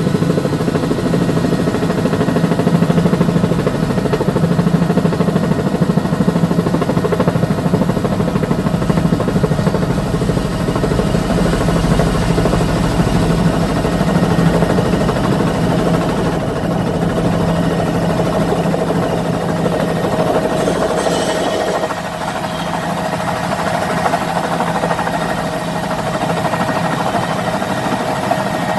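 Helicopter engine and rotor running steadily: a constant loud drone with a pulsing low beat and a thin high whine.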